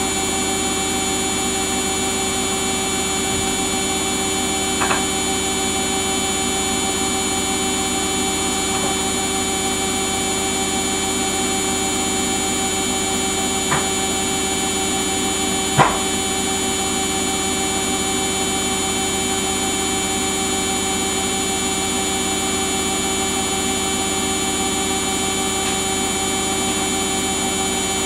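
Samsung washing machine running steadily on its Daily Wash 40 programme, its motor giving a constant whine that does not change in pitch. Three short knocks or clicks come about 5, 14 and 16 seconds in, the last the loudest.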